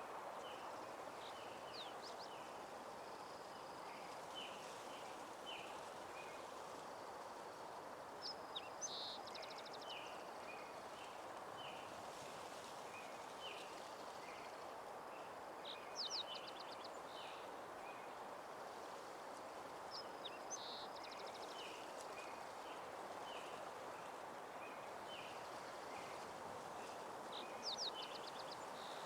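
Countryside ambience of songbirds calling over a steady soft rushing background. Short chirps come every second or so, and a brighter trilled song phrase repeats four times, several seconds apart.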